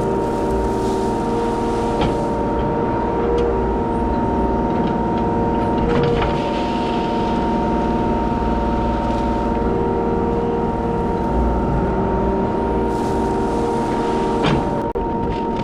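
Kubota 33 mini excavator's diesel engine running steadily under work, with a constant high tone over the engine drone. A few sharp knocks stand out, about two seconds in, at six seconds, and near the end.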